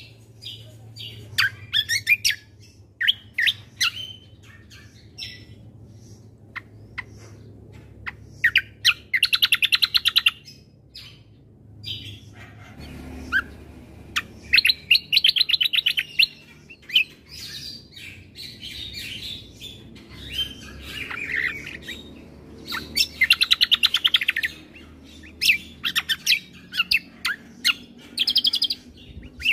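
Kecial kombo (cucak kombo) singing: sharp separate chirps broken by three fast, rattling trills of about a second and a half each, recorded as a song-training (masteran) track.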